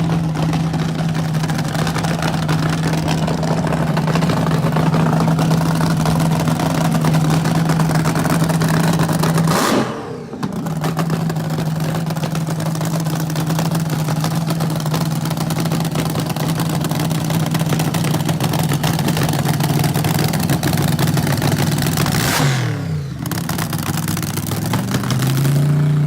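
Car engine held at a steady high rev, very loud. The revs dip and come straight back up about ten seconds in, then fall away and climb again near the end.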